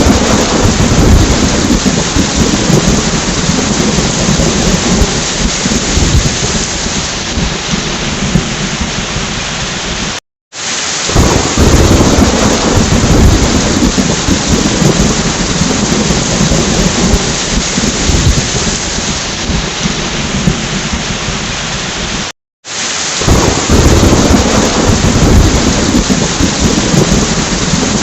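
Heavy rain falling steadily with thunder rumbling low underneath. The recording is a short loop: it cuts out to silence for a split second twice and starts again, each time with a heavier rumble of thunder.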